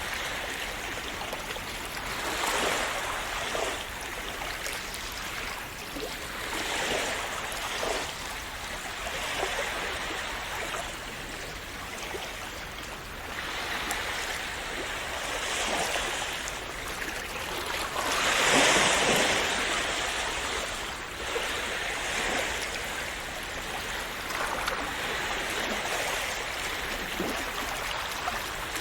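Gentle sea waves washing onto the shore, the surf swelling and receding every few seconds, with one larger wave about two-thirds of the way through.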